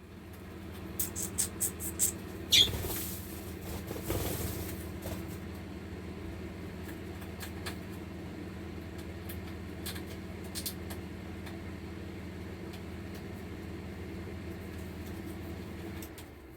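A steady low hum, like a small motor or fan, cuts off near the end. In the first few seconds there are scattered light clicks and one short falling chirp.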